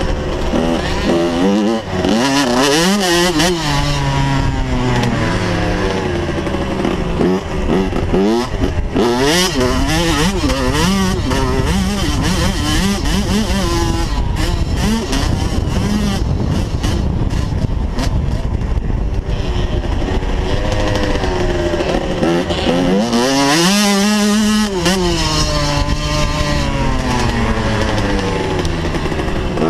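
Small motocross dirt bike engine running hard, its pitch climbing and dropping again and again with throttle and gear changes, with a big rev up and back down about three-quarters of the way through.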